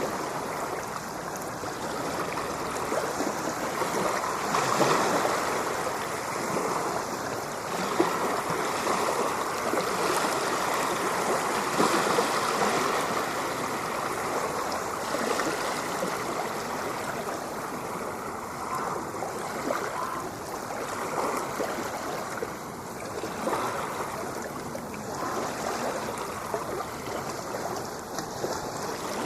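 Ocean waves washing in and out: a continuous rushing of water that swells and eases every few seconds.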